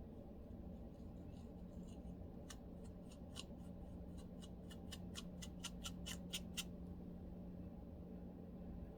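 Lice comb scratching a dry, flaky scalp, a run of crisp short scratches from about two and a half seconds in to near seven seconds, coming faster toward the end, over a steady low hum.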